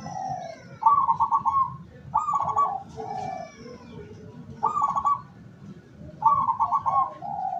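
Zebra dove (perkutut) cooing: four rapid, trilled coo phrases, each dropping to a softer lower note. They come roughly every one and a half to two and a half seconds.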